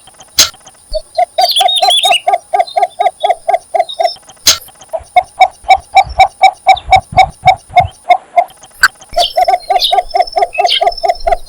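Birds at a nest: a steady run of short, low, evenly spaced call notes, about five a second, broken by brief bursts of high, thin chirping about a second and a half in and again near the end.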